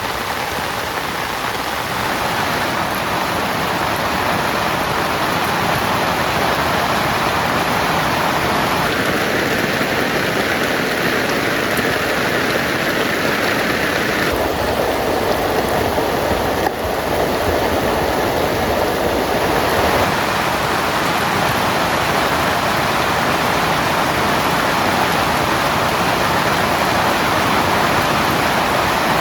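Heavy rain falling steadily in a dense, even hiss, its tone shifting slightly a few times.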